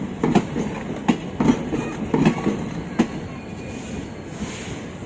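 ICF passenger coaches of a departing express train rolling past, their wheels clacking over the rail joints in a series of sharp knocks, fewest and quietest near the end.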